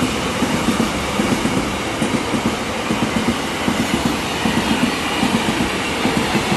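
Double-stack container freight train rolling past close by: a steady rumble of steel wheels on the rail, with rapid, irregular clatter as the wagons' wheels pass over the track.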